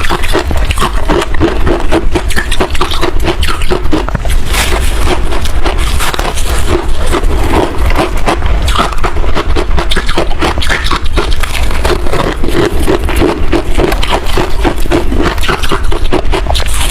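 Close-miked chewing of freezer frost: dense, continuous crunching and crackling of the packed ice, with no pauses. A steady low hum runs underneath.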